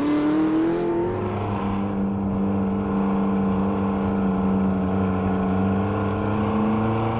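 Chevrolet Camaro ZL1 1LE's supercharged 6.2-litre V8 running under way at a steady speed. Its pitch drops about a second in, then holds level.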